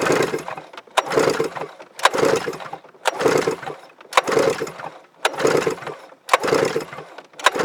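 Yamaha Vmax SX 700 three-cylinder two-stroke snowmobile engine being cranked over for a compression test on the clutch-side cylinder: eight even cranking strokes about a second apart, each starting with a sharp click. The gauge reads a healthy 125 psi on this cylinder.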